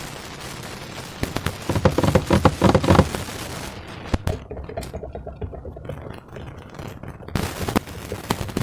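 Slime being squeezed and worked by hand: sticky crackling and small popping clicks, busiest and loudest for a second or so near the start, then sparser.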